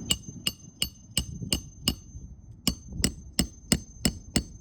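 Hammer driving roofing nails into a shingle: quick, even blows, about three a second, each with a metallic ring, in two runs with a short pause about two seconds in.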